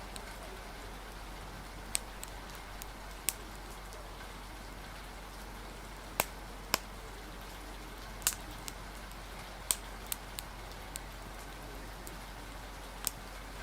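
Steady hiss of rain, with about a dozen sharp pops at irregular intervals from a crackling wood fire.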